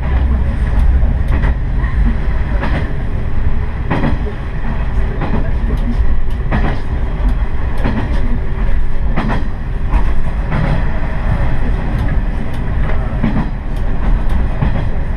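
Diesel railcar running along the line, heard from inside the car: a steady low rumble of engine and wheels, with irregular sharp clicks as the wheels pass over rail joints.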